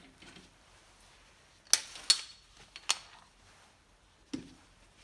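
A few sharp metallic clicks and clinks, then a single duller knock near the end, as steel tools and parts are handled during a bearing-puller job.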